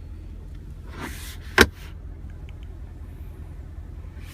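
A single sharp click of the center storage compartment lid shutting, about a second and a half in, just after a soft rustle, over a steady low hum.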